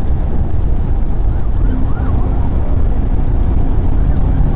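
Steady, loud road and engine noise of a car driving at highway speed.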